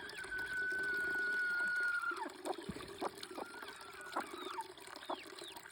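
Chicks peeping, a long steady high note for about two seconds and then a string of short falling peeps, over the trickle of a garden water fountain.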